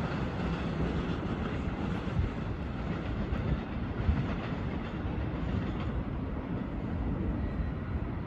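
Amtrak Carolinian passenger train going by, its wheels making a steady noise on the rails.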